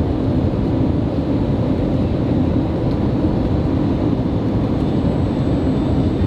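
Steady cabin noise inside an Airbus A321neo: an even, deep rumble of engines and airflow, with faint steady tones above it.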